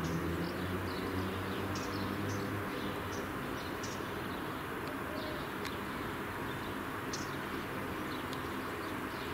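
Short, high bird chirps scattered irregularly over a steady background rumble, with a low engine-like hum fading out in the first few seconds.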